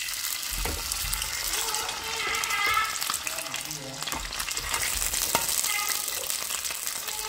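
Marinated chicken wings frying in shallow hot oil in a pan, with a steady crackling sizzle.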